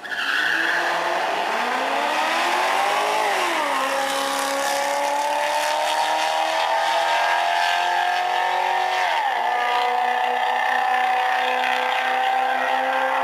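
Corvette convertible's V8 launching from the drag strip start line at full throttle. The engine note climbs, drops at an upshift about three and a half seconds in, climbs again and drops at a second upshift about nine seconds in, then holds steady.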